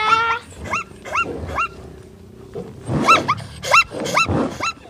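Plains zebra giving its barking call: a run of short, high yelps, about two or three a second, in two bouts with a pause of about a second between them.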